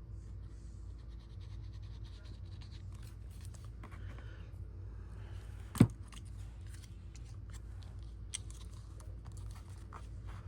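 Paper and cardstock being handled and pressed onto a journal page: faint scratching and rustling with small ticks, and one sharp tap a little over halfway through, over a steady low hum.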